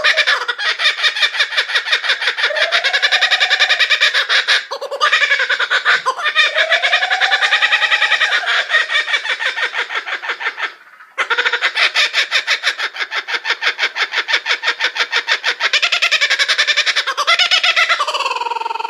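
A bird calling in a long, fast run of rapid pulsed notes that rise and fall in pitch, with a laughing quality. The calling breaks off briefly about eleven seconds in, then carries on.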